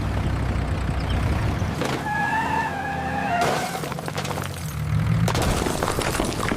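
Cartoon sound effects: a low vehicle-like rumble, a wavering held tone through the middle, then a burst of crashing and clattering in the second half.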